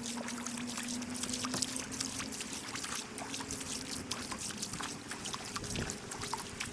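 Water splashing and trickling in many quick small splashes, over a faint steady hum.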